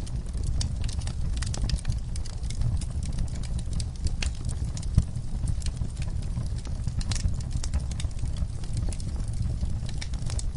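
Wood fire in a fireplace crackling: frequent sharp pops and snaps over a steady low rumble, with one louder pop about five seconds in.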